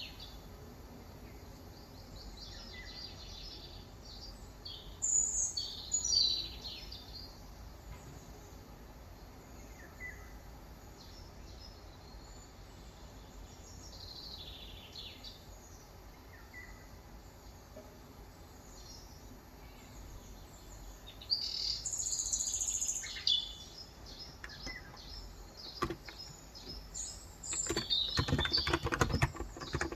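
Birds chirping and calling in short scattered phrases, with a louder burst of song a little after 5 s and again around 21 to 23 s. Near the end, rapid keystrokes begin on a Cox Endeavor electrostatic-capacitive (Topre-style) keyboard with 35 g switches.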